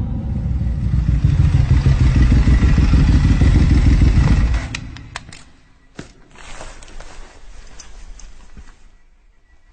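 Ducati superbike engine running loud, growing louder, then cutting off abruptly about four and a half seconds in, followed by a few sharp clicks and faint clatter.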